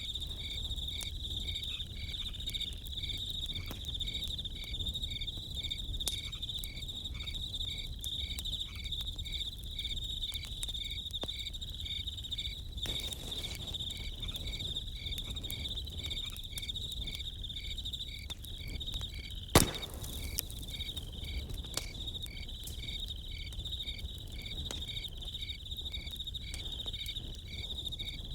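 Crickets chirping steadily, a continuous high trill with a regular pulsed chirp beneath it, over a campfire crackling with scattered small pops. One sharp, loud pop from the fire comes about two-thirds of the way through.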